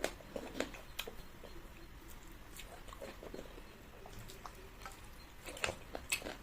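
Eating sounds: chewing with scattered small clicks and smacks. A few sharper ones come at the start and near the end.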